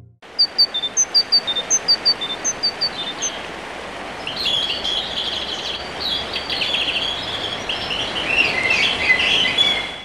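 Songbirds singing: one bird repeats a short, high chirping phrase roughly every 0.7 seconds, then from about four seconds in a busier chorus of chirps and twitters sets in, over a steady background hiss.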